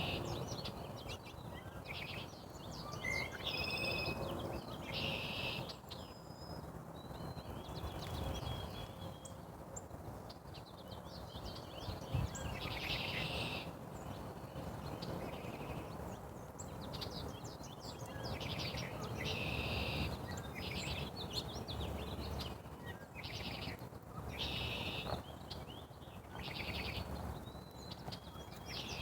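Small birds chirping and twittering in short high phrases that come every second or two, over a steady low rumble.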